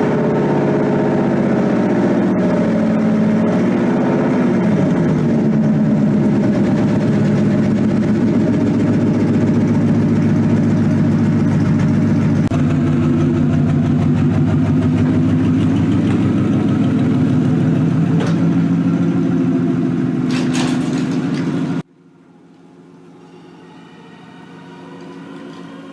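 Swapped V8 in a Ford Mustang just after a cold start, running at a fast idle through long-tube headers and a Bassani X-pipe with no mufflers, so it is loud and raw. The idle wavers for a few seconds early on, then holds steady before cutting off suddenly near the end, when quieter music comes in.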